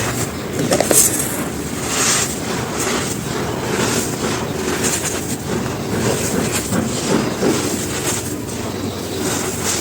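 Dry charcoal being crumbled and crushed by hand: a continuous dense crackling crunch, with a few sharper crunches about a second and two seconds in.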